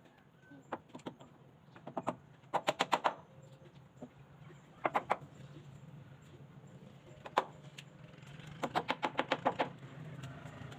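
Sharp knocking taps in quick runs of up to about eight strikes at roughly eight a second, with a few single knocks between.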